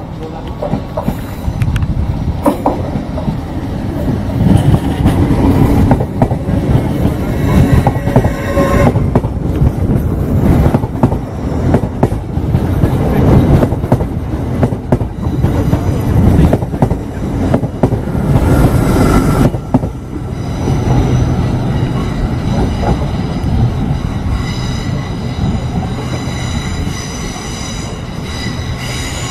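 Hull Trains Class 802 passenger train passing close at speed: loud rumble of wheels on rail with clickety-clack over rail joints, strongest in the middle. After a sudden change about twenty seconds in, the train comes on over curved junction track with a steady high-pitched wheel squeal.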